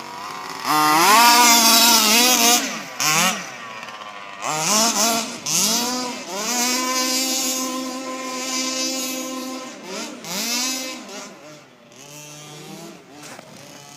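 Engine of a freshly rebuilt Baja revved repeatedly: a quick climb, several short blips, one high rev held for about three seconds, another blip, then it drops back to idle near the end.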